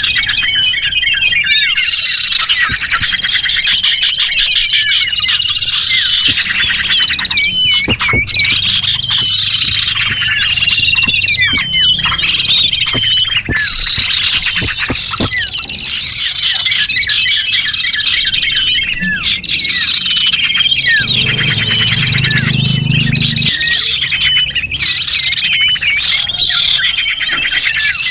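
Bird-lure recording of small birds chirping and twittering densely, many calls overlapping. Rapid trills mix with held high whistled notes throughout.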